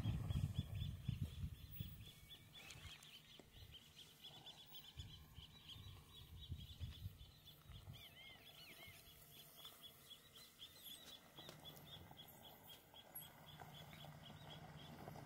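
Faint high chirping repeated several times a second, with a few louder arching bird calls about eight seconds in. A low rumble at the start, and near the end the low hum of the approaching pickup truck's engine grows.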